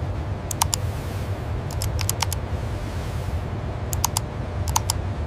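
A steady low machinery rumble with small, sharp clicks in clusters of two or three every second or so.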